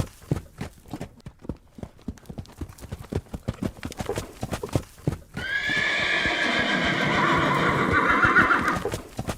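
A horse's hooves beating rapidly as it runs, then a long, loud neigh of about three and a half seconds starting a little past halfway, with hoofbeats resuming at the end.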